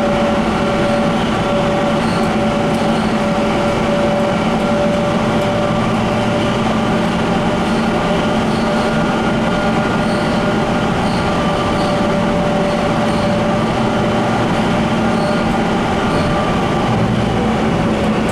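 Steady running noise inside a light rail car under way: a dense rumble of wheels on rail with a few steady motor hums held at one pitch.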